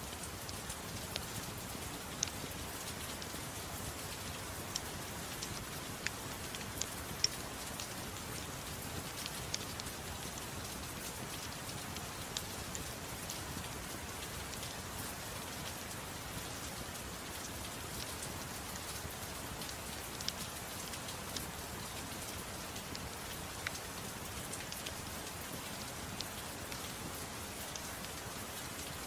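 Steady soft rain hiss with scattered sharp pops and crackles from a wood fire in a fireplace, a few seconds apart at irregular intervals.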